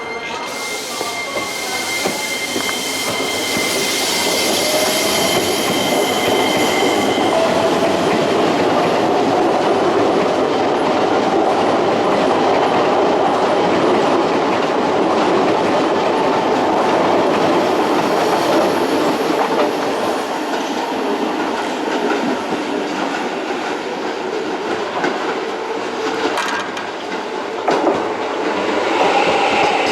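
Keisei electric train running along the station track, growing louder over the first several seconds and then holding steady, with wheels clattering over the rail joints. A thin high squeal lasts about the first seven seconds, and a motor tone slowly rises in pitch.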